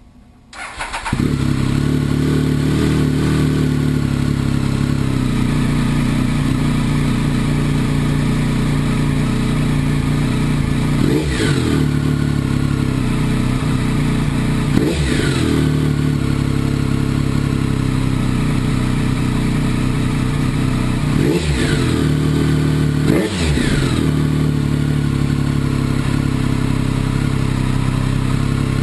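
Triumph 1050 inline-triple motorcycle engine idling through a Triumph off-road (TOR) exhaust with no catalytic converters. Its sound comes in about a second in, then four quick throttle blips, two close together near the middle and two more later on.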